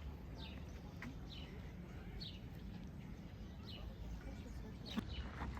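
A small bird repeating a short, high, descending chirp about once a second, five or so times, over a steady low outdoor rumble, with a single sharp click near the end.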